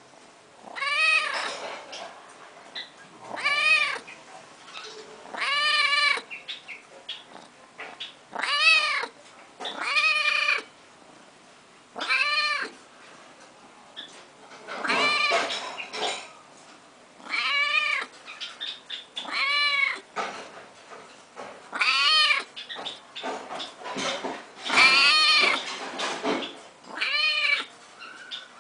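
A domestic cat meowing over and over, about a dozen drawn-out meows coming every two to three seconds, each one rising and then falling in pitch.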